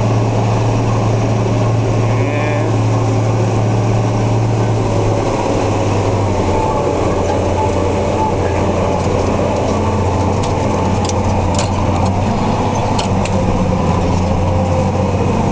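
Engine of a large diesel farm tractor running steadily while pulling a chisel plow. Its low note drops slightly about five seconds in.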